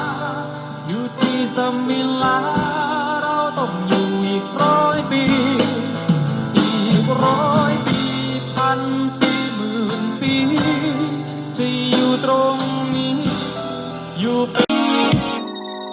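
Music played through a 3-inch 8-ohm full-range speaker driver under test: a Thai song passage with a wavering melodic lead over a steady bass. Near the end the bass drops out as the music changes to another track.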